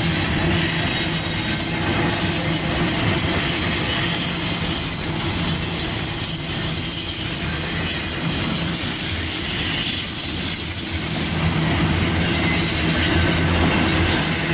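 Double-stack intermodal well cars loaded with shipping containers rolling past at close range: a steady rumble of steel wheels on rail, with a thin high-pitched wheel squeal over it.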